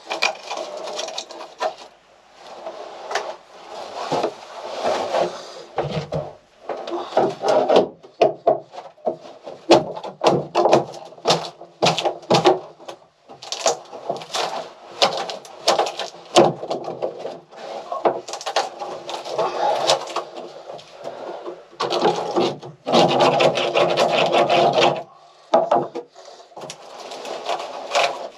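Wooden boat interior being pried, scraped and broken out: an irregular run of scraping, rubbing, cracking and knocking, with the thickest stretch of scraping near the end.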